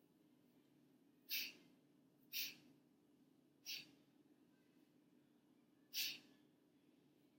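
Four short, breathy puffs of air from a person, like quick exhalations or sighs, over a near-silent room with a faint low hum.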